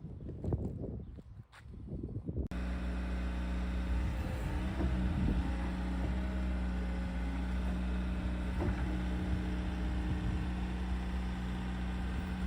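A few low knocks and rustles, then about two and a half seconds in the Bobcat T66 loader's diesel engine cuts in abruptly and runs at a steady idle.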